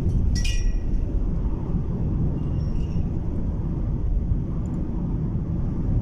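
Steady low road and engine rumble inside a moving car's cabin. A brief high chirp sounds about half a second in.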